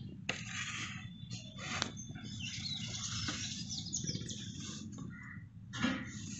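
Several small birds chirping and twittering in quick, irregular bursts, over a steady low hum.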